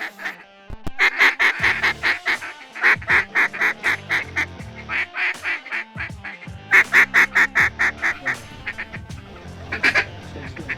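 Duck quacking in several quick runs of about five or six loud quacks a second, with short gaps between the runs. Background music plays underneath.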